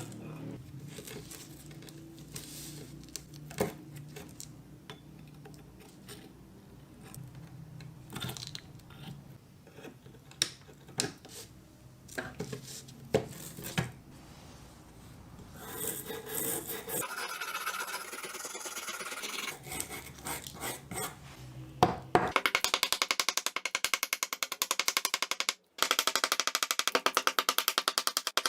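Metal hand tools being handled on a workbench: scattered small clinks and knocks, then a few seconds of scraping. About three-quarters of the way through, a loud, fast, even pulsing starts and continues.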